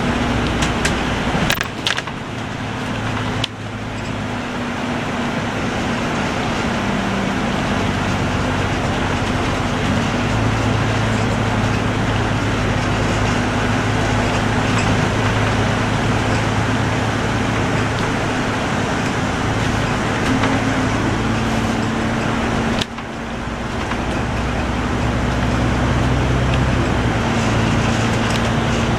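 A motor vehicle running with steady road noise and a low engine hum, broken by sudden cuts a few times.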